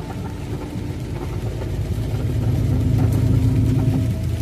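Truck engine running under load with road noise, heard from inside the cab. It grows steadily louder for about three seconds and eases off shortly before the end.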